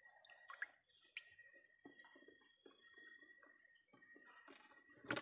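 Near silence: faint drips and small water sounds from hand shrimp-catching in shallow creek water, with a few sharper clicks near the end from handling the plastic catch container.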